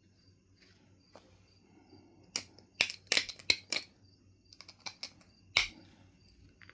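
Knife River Flint being knapped: a quick run of sharp stone clicks and snaps a little over two seconds in, then a few lighter ticks and one more sharp snap near the end.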